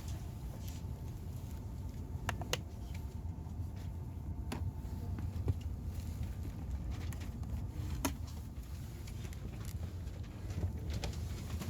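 Steady low rumble inside a Shinkansen bullet-train carriage, with scattered sharp clicks and knocks.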